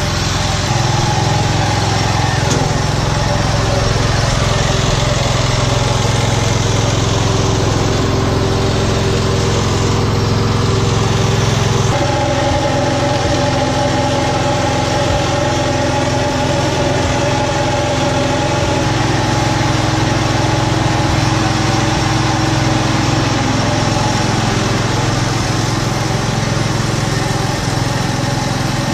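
An engine running steadily at an even speed, its note shifting to a slightly different pitch about twelve seconds in.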